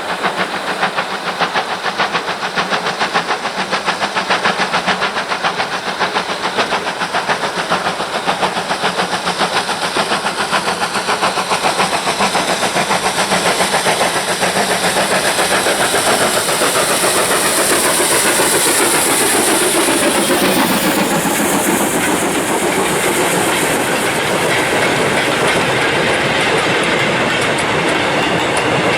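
Steam locomotive hauling a train past: fast, even exhaust beats with a strong steam hiss, then the clatter of the carriage wheels over the rail joints, with a falling tone about two-thirds of the way through.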